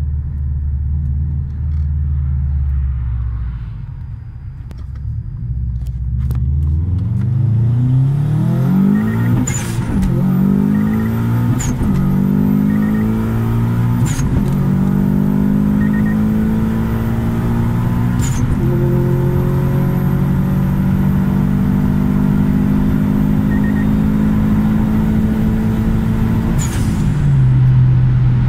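Turbocharged 2004 Subaru Impreza WRX STI EJ207 flat-four, fitted with a larger 18G turbo running 1.4 bar of boost, accelerating hard at full throttle, heard from inside the cabin. It starts low and steady, then from about six seconds in the revs climb and drop with each of several gear changes, and near the end the revs fall and hold steady as the throttle is eased.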